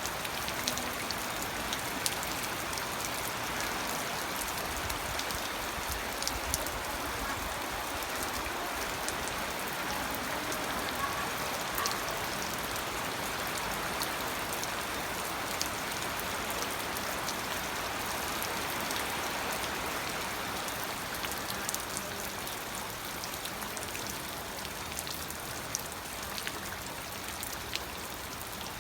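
Steady rain falling, an even patter with many separate drops ticking sharply on a surface.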